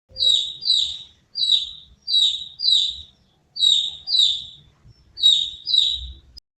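A bird calling: nine short, high chirps, mostly in pairs, spread over about six seconds.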